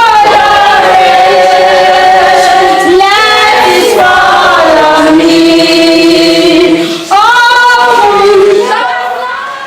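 A choir of voices singing a slow song with long held notes, women's voices most prominent, fading out near the end.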